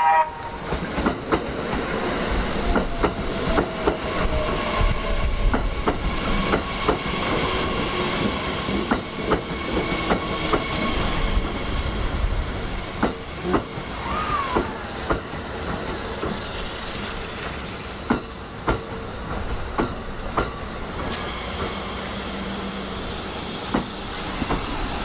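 Kintetsu 80000 series 'Hinotori' electric train rolling slowly past close by: irregular clacks of its wheels over rail joints and points, with a steady high whine from the train.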